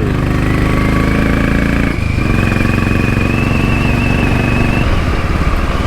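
Motorcycle engine running steadily under way, with a brief dip about two seconds in, and a thin high whine rising slightly over it that stops near the end.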